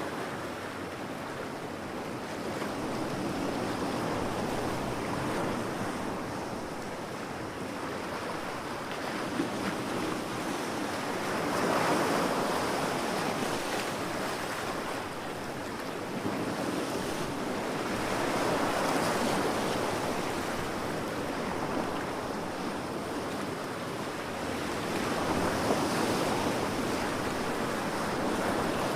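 Ocean surf breaking on a beach, a steady wash of noise that swells and falls back about every seven seconds as each wave comes in.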